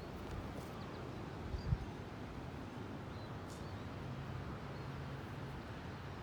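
Strong wind blowing steadily, rumbling on the microphone, with one brief low thump about a second and a half in.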